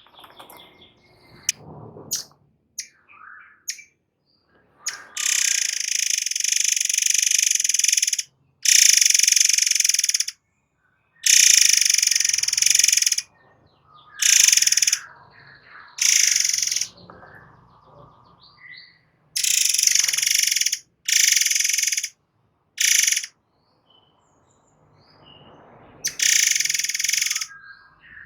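Murai air songbird giving its rapid-fire 'nembak' song: about nine loud, harsh, buzzing bursts high in pitch, from under a second to about three seconds long, with short faint chirps between them.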